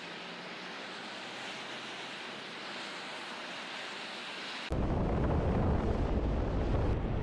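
Storm wind blowing as a steady hiss. About two-thirds of the way in, it cuts abruptly to much louder, rough low rumbling of wind buffeting the microphone.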